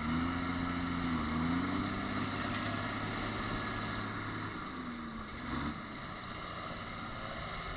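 Tractor engine running, its pitch dipping and rising again about a second in; the engine note falls away a little past halfway.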